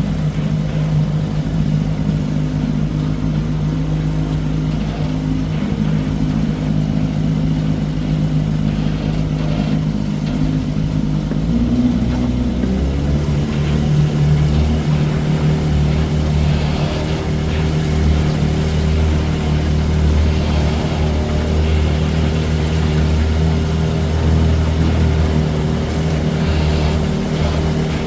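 Johnson 20 hp two-stroke outboard motor running steadily under way. Its note shifts about halfway through and then holds steady again.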